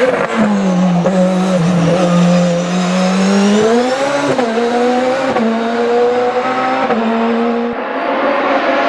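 Race car engine running hard on a hill climb. Its pitch climbs about halfway through, then steps up and down several times as it shifts gears.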